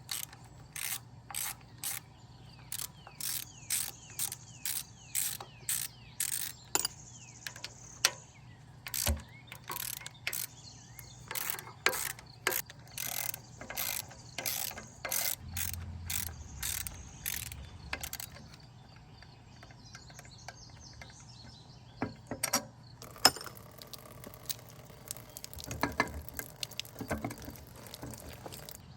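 Ratchet wrench working on a Ford 250 inline-six during teardown: sharp clicks in a steady run of about two a second, then a quieter stretch with scattered clicks and knocks of tools and parts near the end.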